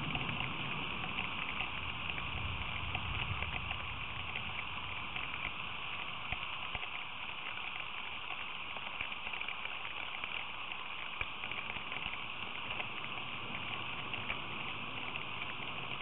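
Steady rain falling, with many small drop ticks through the hiss, heard through the feeder camera's outdoor microphone. A low rumble sits under it in the first few seconds, then eases.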